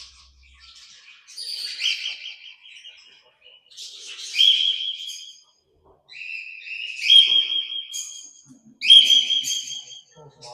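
Parrots calling in four bursts of high-pitched chirps and whistle-like calls, with short gaps between them; the last two bursts are the loudest.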